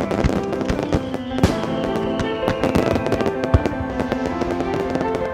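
Fireworks banging and crackling at irregular intervals, with a sharper bang about three and a half seconds in, over music with sustained notes.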